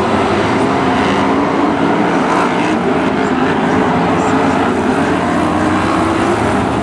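BriscA F1 stock cars' V8 engines running at racing speed, several at once: a loud continuous drone with overlapping engine notes that waver up and down.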